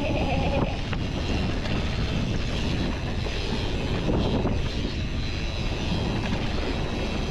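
Mountain bike riding a dirt trail: steady wind rush on the microphone with tyre and frame rattle over the ground. A short wavering tone ends under a second in.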